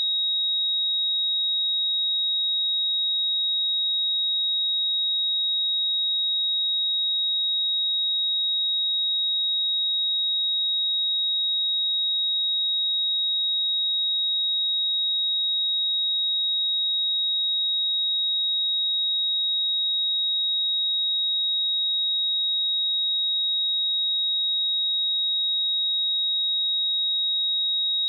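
A steady, unbroken 3788 Hz sine-wave test tone: a single high-pitched pure tone at constant loudness.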